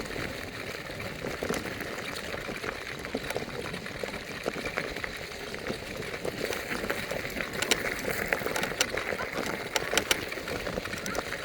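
Electric scooter riding along: a steady rolling noise of tyres and air with frequent small clicks and rattles, more of them in the second half.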